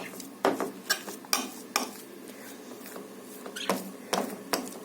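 A metal utensil clicking and scraping against a dish as eggs are mashed: sharp clicks about every half second, a pause in the middle, then a few more near the end.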